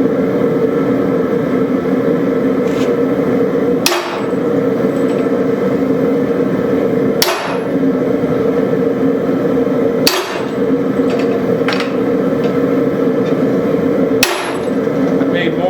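Four sharp hammer blows, a few seconds apart, driving a hammer eye drift into a hot railroad spike to punch the eyes of a skull face, over a steady loud drone.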